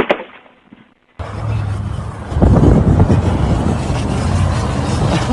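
A motor vehicle's engine running with a heavy low rumble and broad noise, starting abruptly about a second in and getting louder about halfway through.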